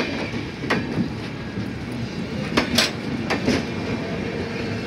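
Passenger express train coaches rolling past, wheels clacking over rail joints in sharp clicks that often come in pairs a fraction of a second apart, over a steady rolling rumble.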